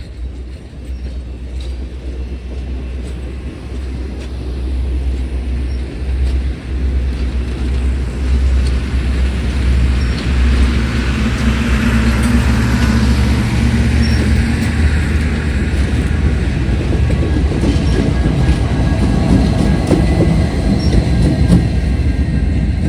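Diesel train approaching and passing close by, growing louder over the first ten seconds or so as the locomotives come by, then a steady loud rumble of wheels on the rails as the cars roll past.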